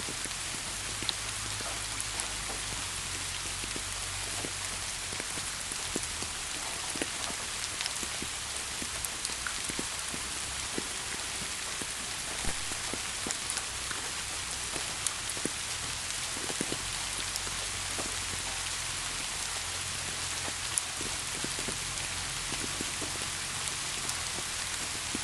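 Steady rain falling, a constant hiss with many scattered individual drops ticking close by.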